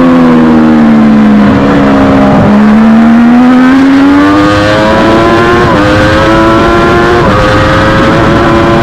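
Onboard sound of a Triumph Daytona 675R race bike's three-cylinder engine at high revs. The engine note falls as the bike slows, with two short breaks in the first few seconds as it downshifts. It then climbs again under hard acceleration, with two upshifts in the second half.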